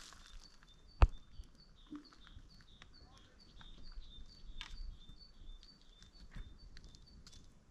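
A small bird repeats a short, high two-note chirp, about two to three a second, over footsteps on stony ground, with a sharp knock about a second in.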